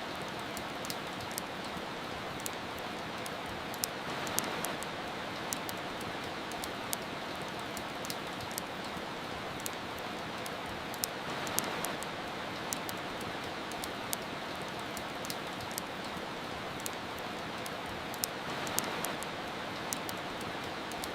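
Steady rain hiss mixed with a fireplace's wood crackle: irregular sharp pops, a couple a second, over the even rush of rain, which swells slightly a few times.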